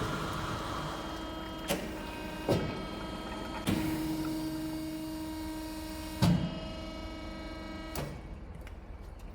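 Metal-cutting saw running through a 200 mm steel bar, a steady motor hum with several sharp metallic knocks. The running sound stops after the last knock near the end.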